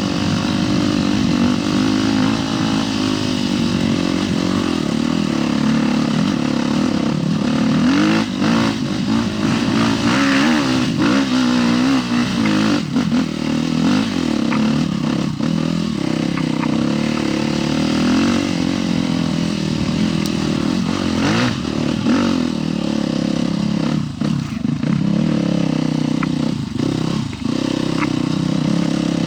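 Husqvarna TE 310 dual-sport motorcycle's single-cylinder four-stroke engine running while being ridden, its pitch rising and falling with the throttle. Scattered knocks and clatter sound over it.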